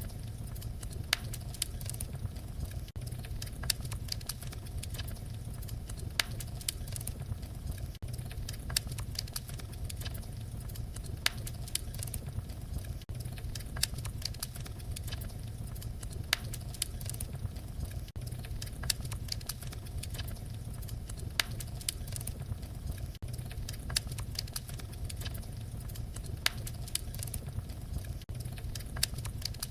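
Wood fire crackling: frequent sharp, irregular pops and snaps over a steady low rumble of flame.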